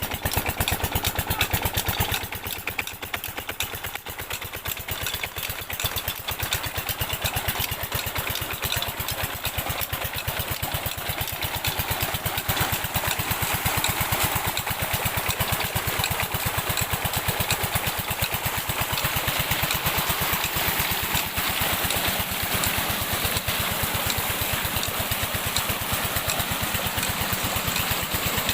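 Diesel engine driving a tube well pump, running steadily with a rapid, even beat of exhaust pulses.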